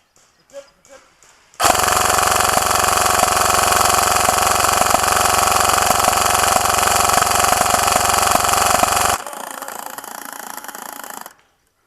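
G&P M249 airsoft electric gun firing one long full-auto burst, a fast, steady mechanical buzz of the gearbox cycling. It starts about a second and a half in and cuts off sharply after about seven and a half seconds.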